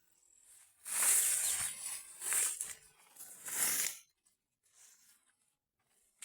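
Rustling and crunching of dry plant material in three bursts across about three seconds, then fainter rustles.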